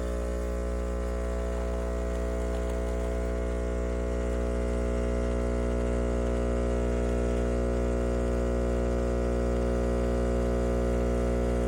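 Philips 3200 Series automatic espresso machine running through a cappuccino cycle, its pump giving a steady, even hum.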